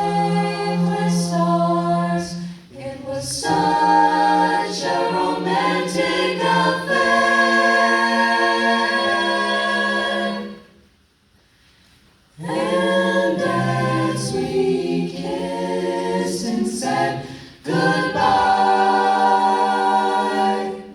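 Vocal ensemble singing a cappella in close harmony, with long held chords. The singing breaks off for about two seconds about halfway through, then resumes.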